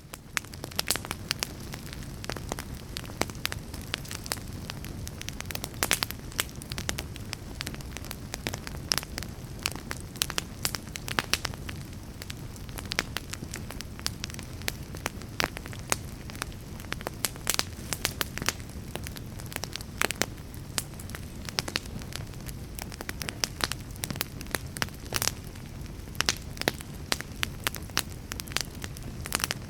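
Fire crackling: a steady low rumble with frequent, irregular sharp pops and snaps.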